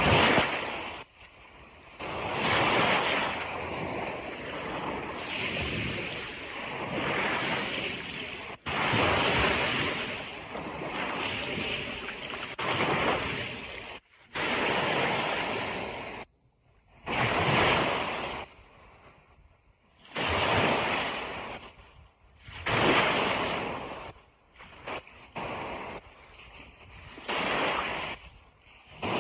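Ocean waves breaking and washing up a beach, a surge of surf every couple of seconds that swells and falls away, with a few sudden short gaps.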